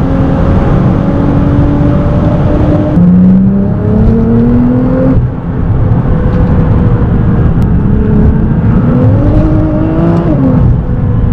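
Tuned 680 bhp Nissan GT-R R35's twin-turbo V6 under hard acceleration, heard from inside the cabin. The revs climb and drop sharply at quick upshifts about three and five seconds in, then climb again and drop once more near the end.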